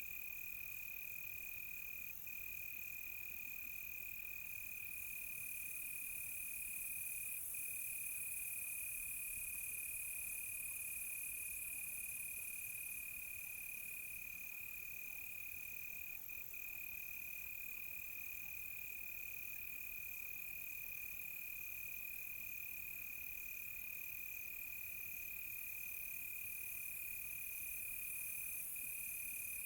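Night chorus of crickets: one unbroken high trill with a few very brief breaks, evenly spaced chirps above it, and a high insect hiss that swells and fades.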